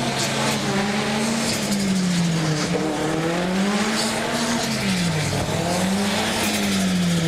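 Nissan 240SX (S13) drift cars sliding in tandem, one engine revving up and falling back about three times as the throttle is worked through the drift, over a steady lower engine drone.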